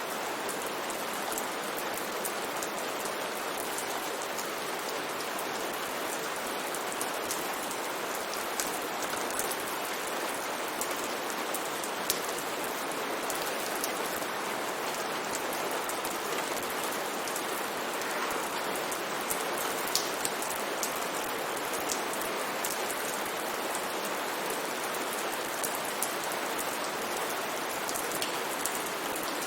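Steady rain falling, an even hiss with scattered drop ticks, a few of them a little louder.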